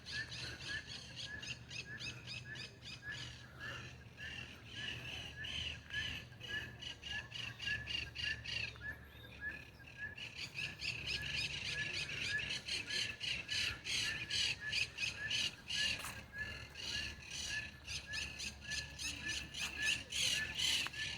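A dense chorus of many birds chirping and calling rapidly, with one short note repeated steadily underneath; the chorus thins briefly about nine seconds in.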